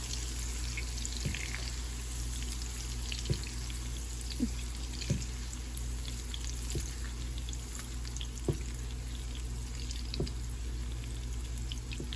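Ground beef frying in a pan, a steady crackling sizzle, with a few short knocks of a utensil against the pan scattered through it.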